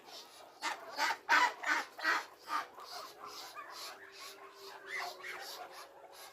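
Muscovy ducks pecking and gobbling dry crumbly feed: a run of quick, scratchy pecks about two or three a second, loudest between one and two and a half seconds in, then softer.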